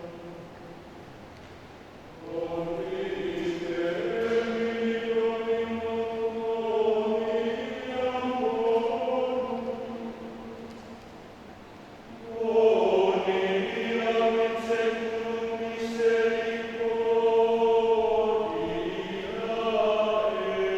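Adult men's choir singing held chords in long phrases, swelling louder about two seconds in and again about twelve seconds in, with softer passages between.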